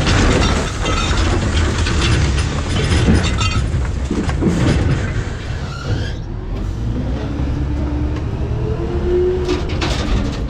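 McNeilus ZR rear-loader garbage truck compacting trash in its hopper: the hydraulic packer runs under load while the trash crunches and cracks for the first half. Then a whine rises in pitch, and a few cracks come near the end.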